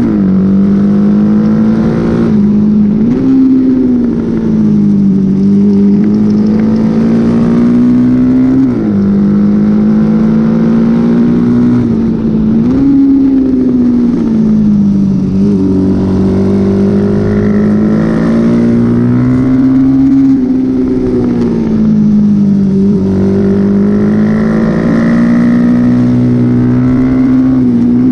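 Honda XL dirt bike's engine running hard under racing load. Its note keeps rising and falling with the throttle, with sudden jumps in pitch every few seconds as it shifts or rolls off and back on.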